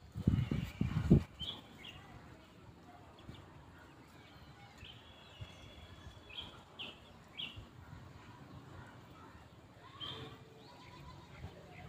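Quiet background with a few short, high bird-like chirps scattered through it. A louder low, pulsing call sounds in the first second.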